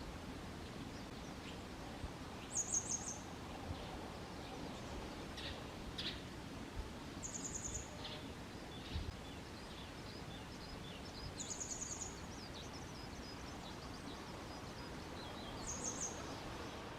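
Grey wagtail singing: short, very high, rapid trilled phrases repeated four times, about every four to five seconds. Fainter chirps fall between the phrases over a steady background hiss.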